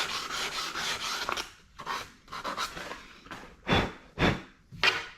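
A series of short rubbing strokes, typical of hand-sanding or wiping cured body filler on a car panel. They come about every half second, and the last few are the strongest.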